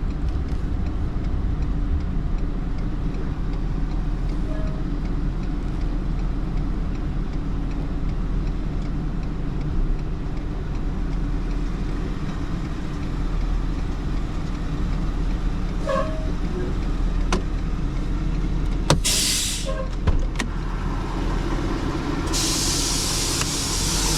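A truck engine running steadily, heard from inside the cab of a flatbed tow truck. A short loud hiss comes about 19 seconds in, with a few clicks around it, and a louder steady hiss starts near the end.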